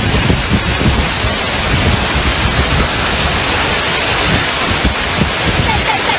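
Storm wind buffeting the microphone, with a dense, steady rush of wind and rain.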